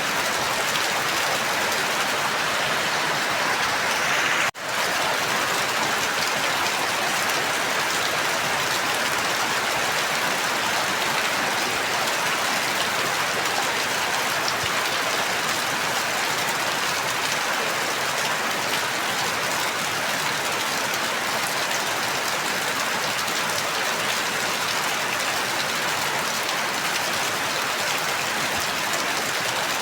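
Steady heavy rain falling, an even hiss with no let-up, broken only by a momentary dropout about four and a half seconds in.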